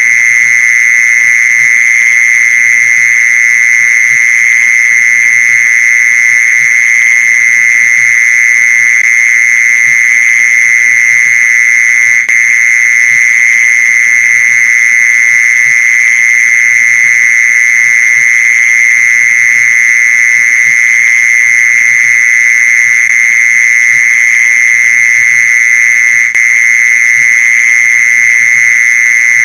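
Mole cricket calling: one loud, unbroken, steady high trill that holds the same pitch throughout, used as a lure call to attract mole crickets.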